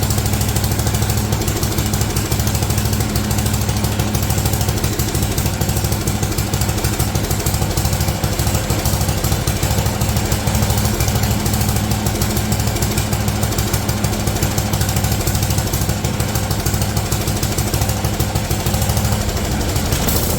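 Earthquake chipper shredder's small gas engine running steadily, with a rapid, even firing pulse. The engine is running again on a new aftermarket carburetor after it would not run on the old one.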